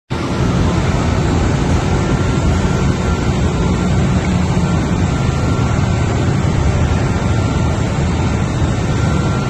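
Ship's engine-room machinery running: a loud, steady roar, heaviest in the low end, with a faint steady high whine.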